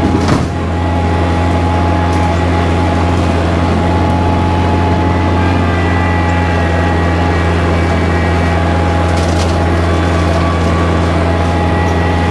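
Kubota tractor's diesel engine running at a steady speed with a constant low drone, with a brief knock right at the start.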